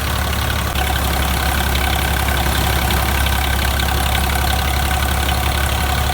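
Tractor engine running steadily, a little louder from about a second in.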